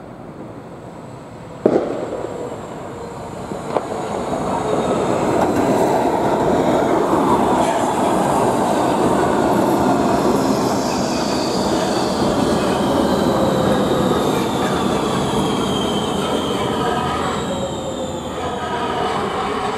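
A rail vehicle running loudly past, with whining tones and wheel squeal that fall slowly in pitch. A sharp knock comes near two seconds in and a lighter one about two seconds later.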